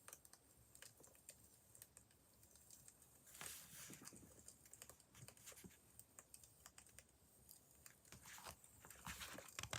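Wood fire crackling faintly, with small sharp pops at irregular intervals. A brief soft rustle comes about three and a half seconds in, and a louder rustle starts just before the end.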